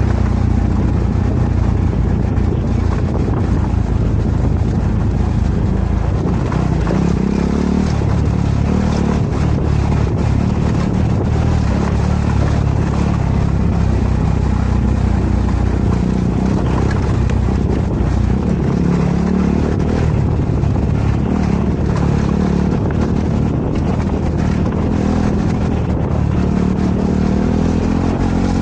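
KTM 390 Adventure's single-cylinder engine running while the motorcycle is ridden along a dirt trail. The engine pitch rises and falls with the throttle and climbs near the end.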